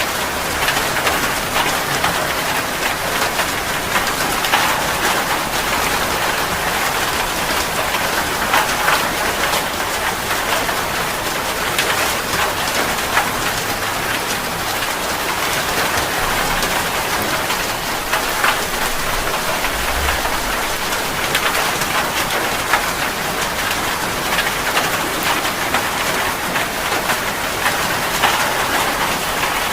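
Steady heavy rain falling, with many individual drops striking close by on top of an even wash of rain.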